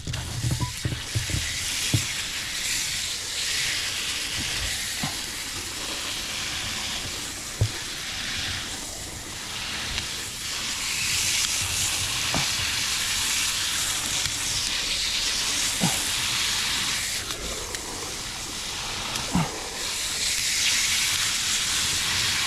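Aerosol Easy-Off cleaner hissing as it is sprayed onto the evaporator coil in long passes, easing off briefly a couple of times, with a few light knocks.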